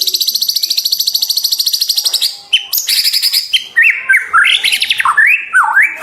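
White-rumped shama singing: a very fast, high trill for about two seconds, a second shorter trill, then a run of loud swooping whistled notes.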